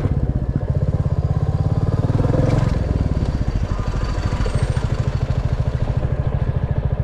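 Royal Enfield Classic 350's single-cylinder engine and exhaust running with an even, rapid pulsing beat while the bike is ridden. It is briefly louder about two to three seconds in.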